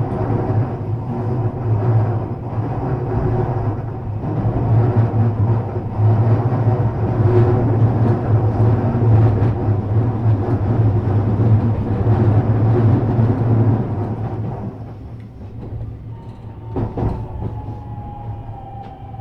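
JR West 321 series electric train running with a steady rumble of wheels and motors. The noise drops from about three-quarters of the way through as the train slows, and a falling whine from its inverter-driven motors sets in as it brakes, with a couple of sharp knocks near the end.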